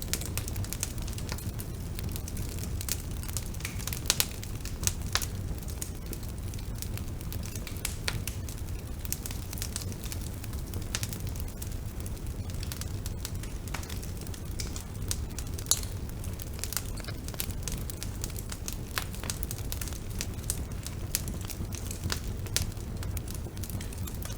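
Bonfire burning steadily: a low rumble of flames with frequent sharp crackles and pops from the wood, a few louder pops standing out.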